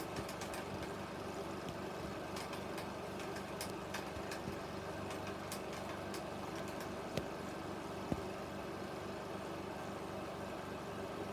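16mm film projector running: a steady motor hum with scattered faint clicks and two sharper clicks about seven and eight seconds in.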